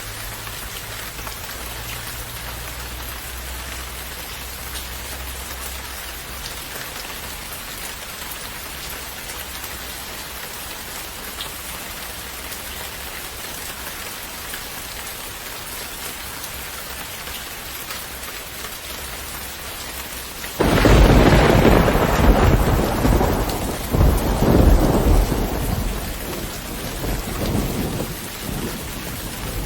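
Steady rain falling, with faint low rumbling in the first few seconds. About two-thirds of the way in, a sudden loud thunderclap breaks out and rolls on in several swells, fading toward the end.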